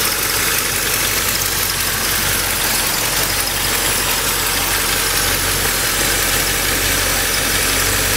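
Ford 390 V8 of a 1963 Galaxie 500 XL idling steadily, heard close at the open engine bay.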